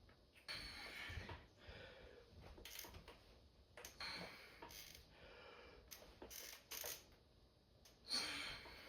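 Faint, scattered clicks and clanks of gym equipment, with a louder burst a little after eight seconds.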